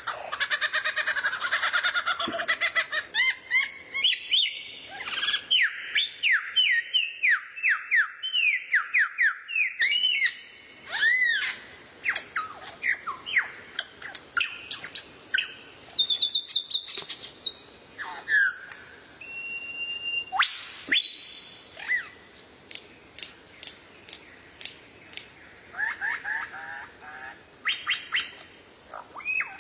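Songbird singing: a fast string of short chirps sweeping downward, then varied whistles and sharp single notes, thinning out after about two-thirds of the way through.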